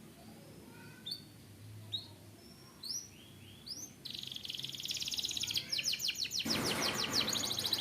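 Domestic canary singing: single short falling chirps about once a second, then about four seconds in, a fast rapid-fire trill. A lower, rasping noise joins the trill near the end.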